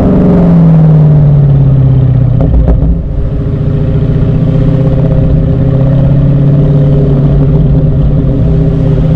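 Muscle-car V8 engine revved, its pitch sliding down over the first couple of seconds and then holding steady at a raised engine speed. There is a brief clatter and dip around three seconds in.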